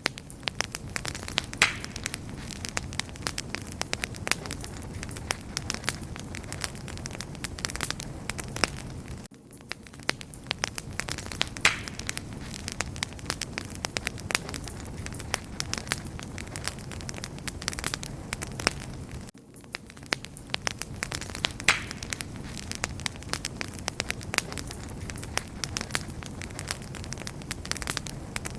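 Wood fire burning with continuous crackling and sharp pops over a low rumble of flames. The level dips briefly about every ten seconds.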